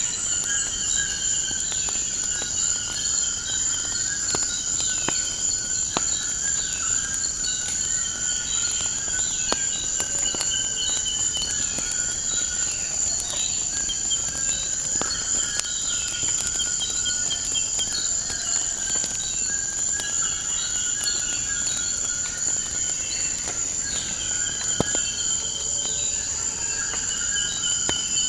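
Steady high-pitched chorus of insects such as crickets, with birds calling in repeated trills and short chirps over it and scattered faint crackling clicks from a wood fire.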